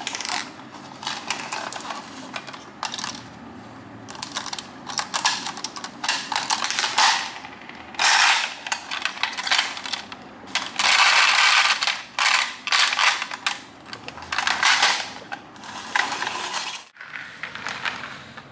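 Small hard toy parts clattering and rattling in repeated bursts of quick clicks, some short and some running on for about a second.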